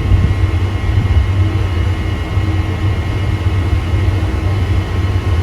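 Steady low rumble with a constant machinery hum from a cruise ship's engines and ventilation.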